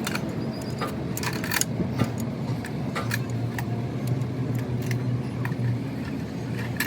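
Irregular light metallic clinks and taps, like metal parts and tools being handled, over a steady low hum.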